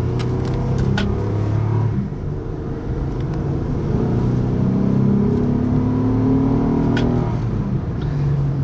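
2007 Acura MDX's 3.7-litre V6, heard from inside the cabin, accelerating through the gears of its five-speed automatic held in manual mode. The engine note climbs in pitch, then drops back at an upshift about two seconds in and again near the end.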